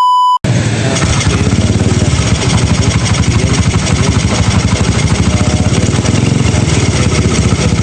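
A short beep tone, then a Honda XRM 125's single-cylinder four-stroke engine running with a fast, even rhythm of pulses. The engine knocks and rattles, a noise traced to a damaged connecting rod and crankshaft side bearing.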